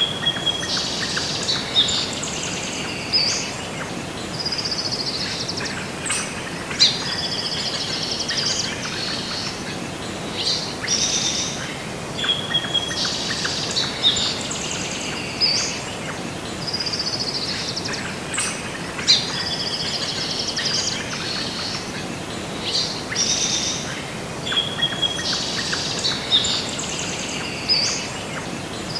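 Songbirds chirping and whistling in quick high phrases, the same sequence of calls coming round again about every six seconds, over a steady hiss.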